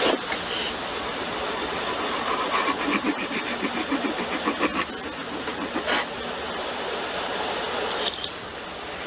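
Belanger tunnel car wash equipment running with steady spray and machinery noise. A quick rhythmic clatter runs from a couple of seconds in to about the middle, with sharp knocks at the start and about six seconds in.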